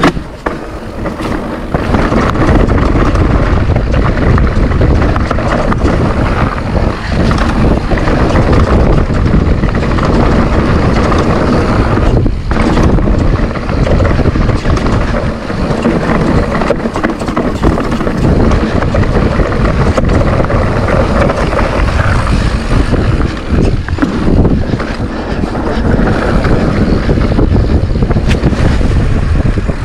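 Mountain bike riding down a rough trail, heard through an action camera's microphone: wind buffets the mic over the constant rumble of tyres on dirt, with many small knocks and rattles from the bike over the ground.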